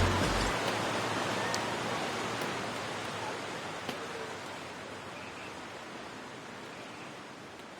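A steady hiss-like rushing noise with no tone, fading slowly away; a deep bass drops out about half a second in.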